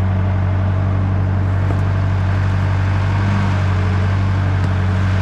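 1967 JCB 3C Mk 2 backhoe loader's diesel engine idling steadily.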